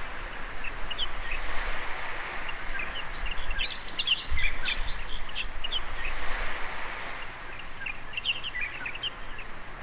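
Small waves washing on a beach, swelling and falling back every few seconds, with many small birds chirping in quick short notes, a dense burst of chirps in the middle.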